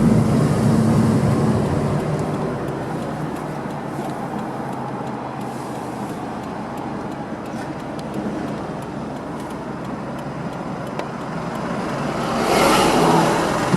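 Toyota 86's 2.0-litre flat-four running through an HKS Hypermax aftermarket exhaust. The sound is loud at first and fades over the first couple of seconds, stays lower and steady, then swells briefly near the end.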